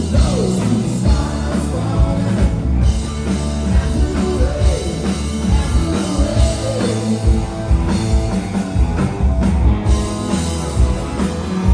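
Rock band playing live, with drums, bass and guitars under a singing voice, recorded on a phone in the audience.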